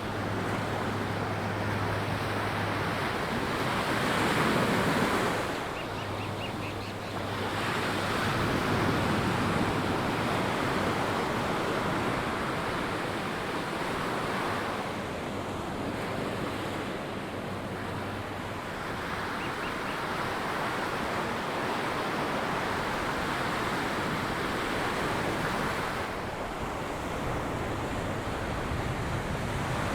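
Surf breaking and washing up a sandy beach, the noise of the waves swelling and easing every few seconds.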